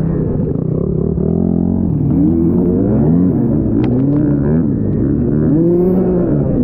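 Off-road dirt bike engine being ridden, its pitch rising and falling again and again as the throttle is worked on and off.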